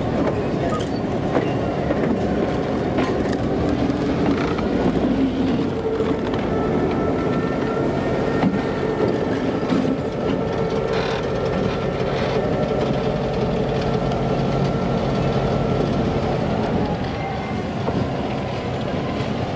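A passenger train passing close by: coach wheels rolling and clattering on the rails, then a diesel locomotive's engine running past. A thin high squeal from the wheels comes in for several seconds midway.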